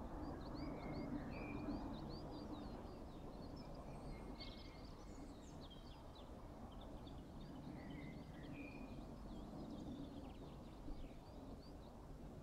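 Songbirds singing in the forest: quick runs of short high chirps, with a few short whistled notes between them, over a steady low background rumble.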